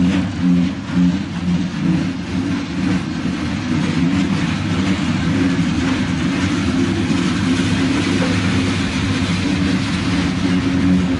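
Freight train of covered hopper cars rolling past: a steady rumble of steel wheels on the rails, with a few sharp clicks near the start.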